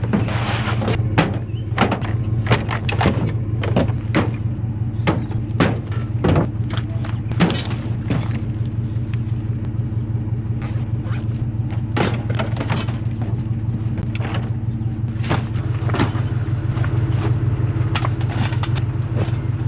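Steady engine and road hum inside a moving car, with frequent irregular knocks and thumps over it.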